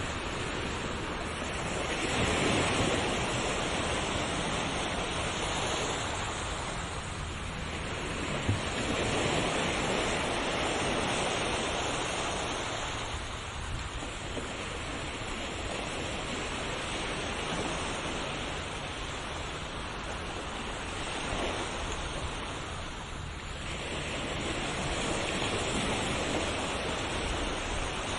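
Sea waves washing onto a shore in slow, steady surges, each swell rising and falling away about every seven to eight seconds.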